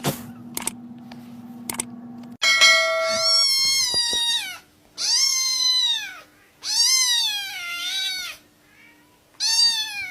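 A few faint clicks over a low hum, then from about two and a half seconds in a cat meowing: four long, drawn-out meows, each rising then falling in pitch.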